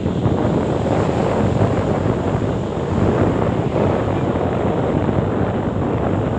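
Wind buffeting the microphone over the rush of the sea, a loud steady noise.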